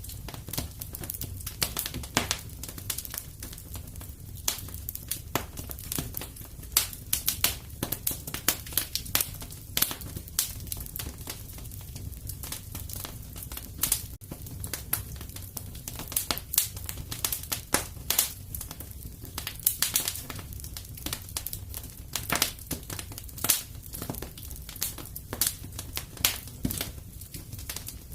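Wood fire crackling in a fireplace: irregular sharp pops and snaps, at times several a second, over a low steady rumble.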